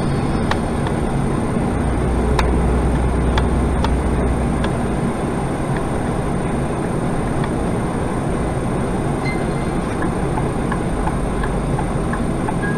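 Steady road and engine rumble inside a moving car, with a few faint clicks.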